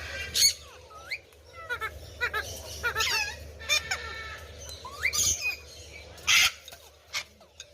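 Parrots calling: a string of short, gliding whistles and chirps, broken by harsh screeches, the loudest a little past the middle.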